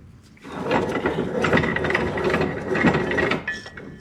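Bench vise screw being cranked, a rough, continuous metal ratcheting and grinding that lasts about three seconds and stops shortly before the end.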